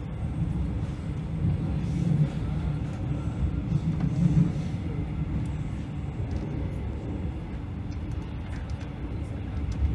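Moving passenger train heard from inside the carriage: a steady low rumble of wheels and running gear on the track, swelling slightly about two and four seconds in.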